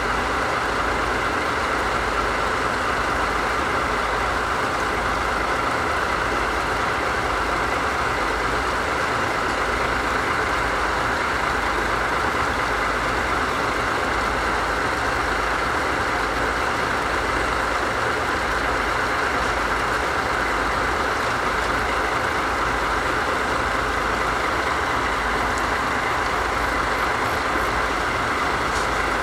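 Diesel engines of a JNR Class DD51 diesel-hydraulic locomotive idling steadily.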